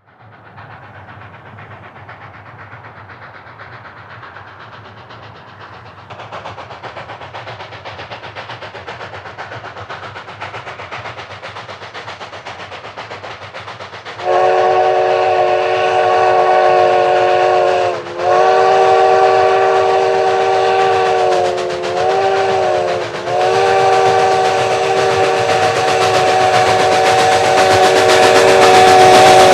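K-36 class 2-8-2 Mikado steam locomotive approaching, its running noise growing louder, then blowing its steam whistle for the grade crossing: two long blasts, a short one, and a long one held to the end.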